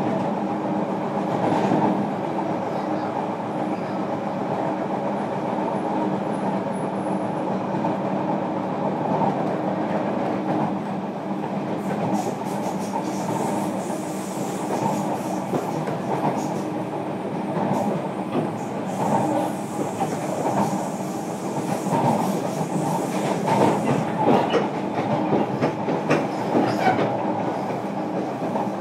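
Interior running sound of a JR Kyushu 305 series electric train, recorded in a motor car: motors and wheels on rail running at a steady speed under a constant low hum. The wheels click over rail joints, sharper and more often near the end.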